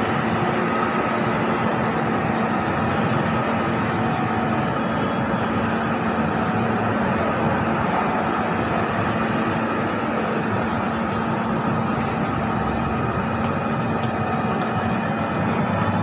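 Electric commuter train moving along the station platform below, a steady rumble of its wheels and running gear with a constant low hum.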